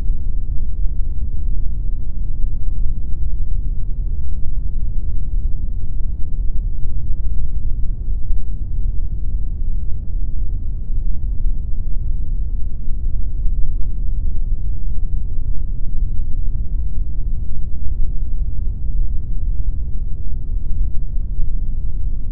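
Steady, unchanging pink noise, its energy heaviest in the bass and fading away toward the treble, with nothing in the top end.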